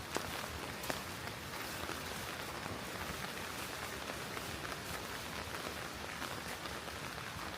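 Steady rain with many small drop ticks, with two sharper ticks in the first second.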